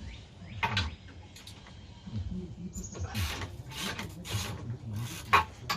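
Hand tools clicking and clanking against metal parts on a truck, with sharp knocks about a second in, about three seconds in, and near the end.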